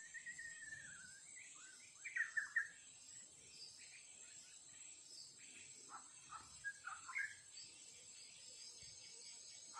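A songbird sings faint whistled phrases and chirps: a long curved whistle at the start, a louder cluster of notes about two seconds in, and more notes around six to seven seconds. Beneath it runs a steady high-pitched insect drone.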